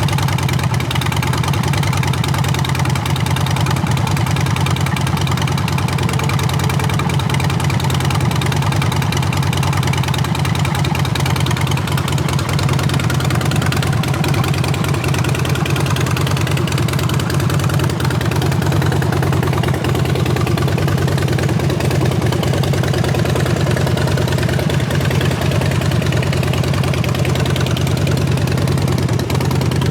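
Harley-Davidson Dyna Street Bob's V-twin engine idling steadily through Vance & Hines Short Shots exhaust, with a loud, even lumpy exhaust note.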